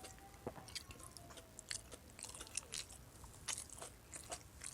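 Close-up chewing and wet lip-smacking of a person eating paksiw na bangus, milkfish stewed in vinegar: irregular soft smacks and clicks, a few a second.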